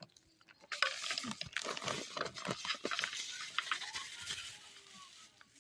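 Rustling and crackling handling noise with many small clicks, lasting about four seconds before it fades near the end.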